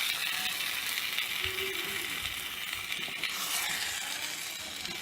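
Marinated chicken sizzling in hot oil with fried onions in a pan: a steady frying hiss with a few faint clicks.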